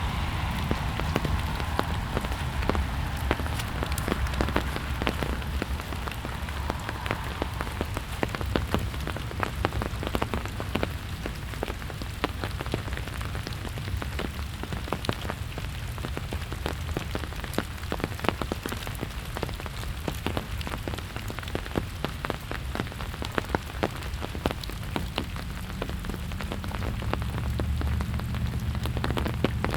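Steady rain falling, with many close drops ticking sharply over an even hiss of rainfall. A low rumble runs underneath and grows near the end.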